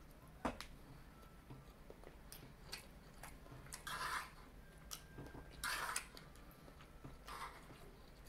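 Quiet chewing of noodles and broccoli with small mouth clicks, and a fork scraping through the food on the plate, loudest about four and about six seconds in.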